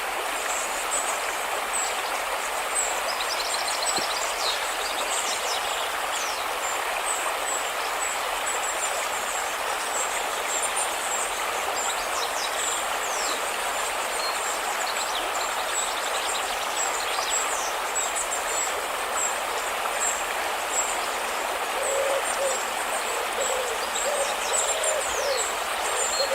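A river flowing steadily, with small birds chirping and twittering high above it. About 22 seconds in, a lower bird call begins repeating over and over.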